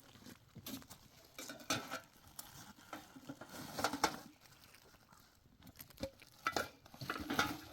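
Scattered clinks and knocks of household objects being handled, such as dishes and utensils, with the loudest knocks about four seconds in and near the end.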